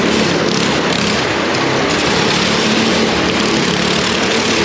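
Motorcycle engine running steadily under a loud, even rushing noise.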